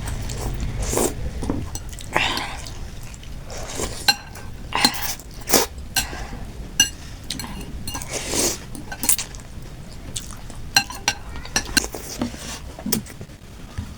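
Metal cutlery clinking repeatedly against a bowl of chicken noodle soup while eating, with sharp ringing clicks every second or so between softer chewing sounds.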